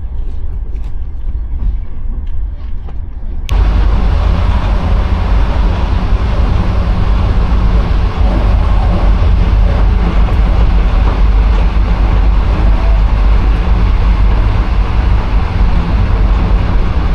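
Steady rumbling running noise of a moving train. About three and a half seconds in it abruptly becomes much louder and fuller.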